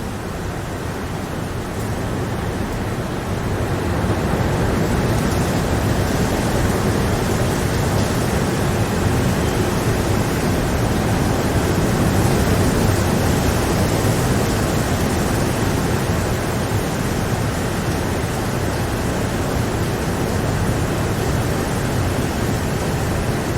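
Steady rain falling, an even hiss that grows louder over the first few seconds and then holds.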